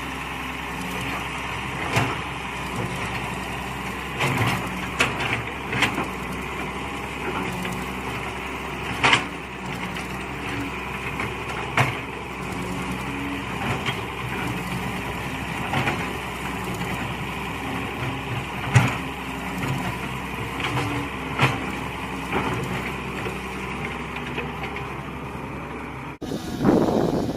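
Mini excavator engine running steadily, with sharp knocks and clanks from the digging now and then. The sound cuts off abruptly near the end.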